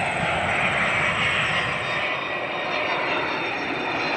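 Boeing 767's twin jet engines running at approach power as the freighter passes low overhead on final approach to land: a loud, steady rushing jet noise.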